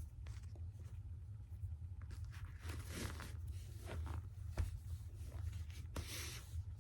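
Faint rustling and a few soft taps, the kind made by moving about and handling things, over a low steady hum.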